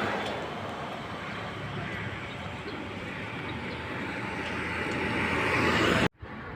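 Steady rushing noise of road traffic, growing louder over the last second or so and then cutting off abruptly.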